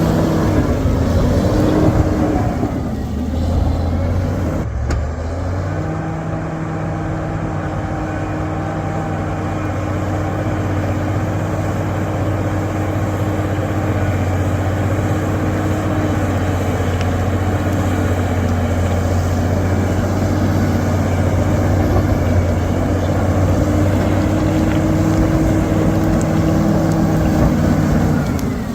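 Bulldozer's diesel engine running steadily under load. Its pitch sags a few seconds in, a brief click breaks in, and then it settles back to a steady drone.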